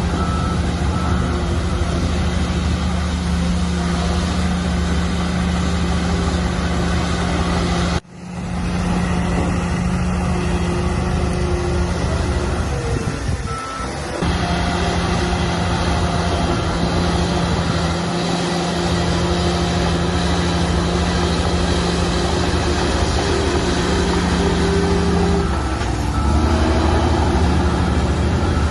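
Heavy diesel earthmoving machinery running steadily, with faint intermittent reversing beeps. The sound cuts out abruptly about eight seconds in and returns within a second. The engine note shifts near the end.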